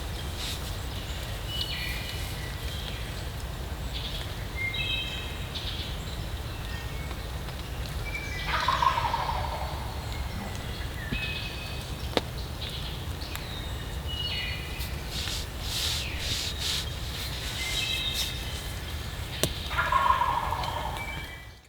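Wild turkey tom gobbling from the roost, twice: one loud gobble about nine seconds in and another near the end. Shorter high bird calls repeat in between.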